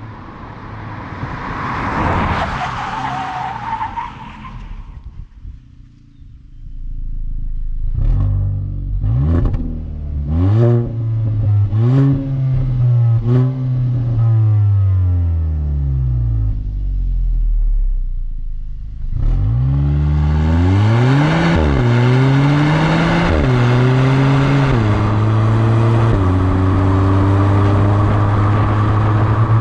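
The 2022 Kia Cerato GT's 1.6-litre turbo-petrol four-cylinder accelerating hard through quick dual-clutch upshifts. The engine note climbs and drops back several times in quick succession, with a short sharp crack at each change. It then winds down, and pulls up again through further gears to a steady note near the end. It opens with a few seconds of rushing noise.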